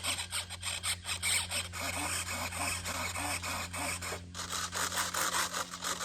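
Small RC airplane servos whirring in rapid short bursts as the rudder and elevator are stick-tested back and forth, over a steady low electrical hum.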